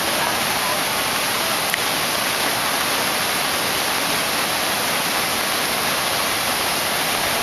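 Heavy rain pouring down, a dense, steady hiss that holds at one level throughout.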